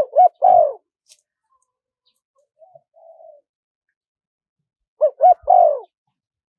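Spotted dove cooing in a high voice: two three-note phrases about five seconds apart, each two short coos and then a longer falling one, with a faint, softer coo in between. It is a decoy call of the kind played to lure wild spotted doves.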